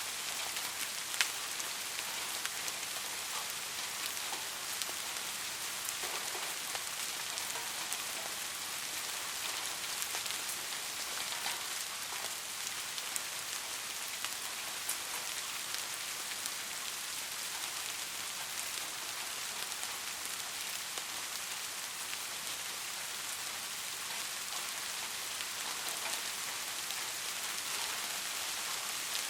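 Steady rainfall: an even hiss of rain on a surface, with individual drops ticking here and there and one sharper drop about a second in.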